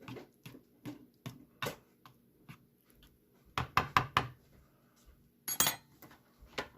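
Kitchen handling noises: a run of light knocks and clicks, with a louder cluster of several knocks about halfway through and another about a second later.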